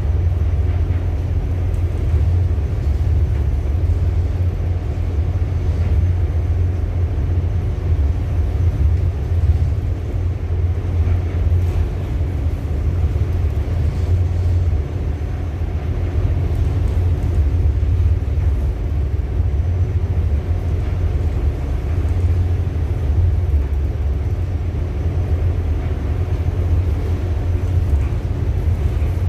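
Ship's engine running with a steady low drone and faint steady hum tones above it, heard on board.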